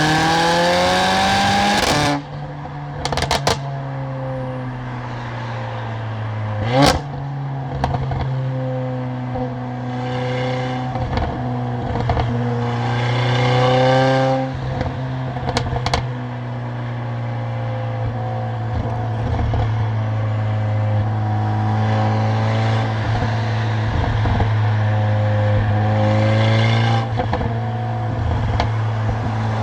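Stage 2 tuned Mercedes-AMG CLA45's turbocharged four-cylinder engine and loud exhaust, pulling hard with rising pitch for the first two seconds, then lifting off and running at a steady low drone while cruising. A few sharp clicks come through, and there is a brief quick rise and fall in pitch about seven seconds in.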